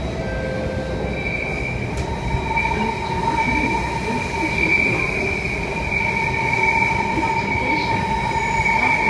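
Alstom Metropolis C830 metro train running in a tunnel, heard from inside the car: a steady rumble, joined after a second or two by a steady high-pitched squeal at two pitches that holds to the end.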